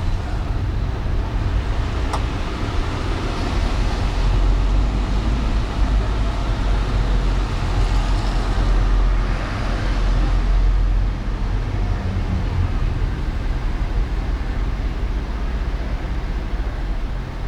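Car driving through city traffic on wet roads: a steady low road and engine rumble under a hiss of tyres, swelling twice as vehicles pass, with a single sharp click about two seconds in.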